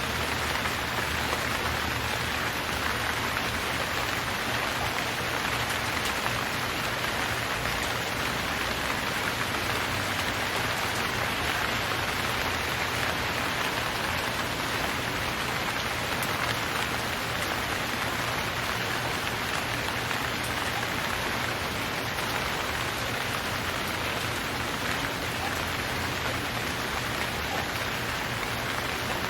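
Steady, even rain falling on a surface, a recorded rain sound effect rather than the storm's own rain.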